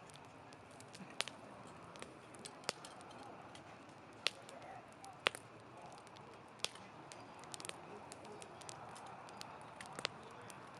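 Wood campfire burning, with a steady low hiss and irregular sharp crackles and pops, the loudest pops about four and five seconds in.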